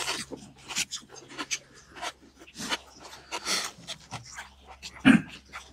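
Close-up eating sounds: irregular wet chewing, smacking and crunching of grilled pork belly and seasoned spring cabbage, over a steady low hum.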